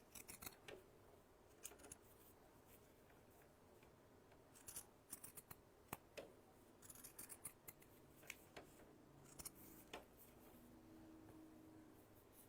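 Pinking shears snipping through fabric: short runs of quick cuts with pauses between them.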